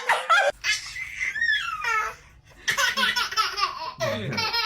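A baby laughing in runs of quick repeated giggles, with a short pause about two seconds in.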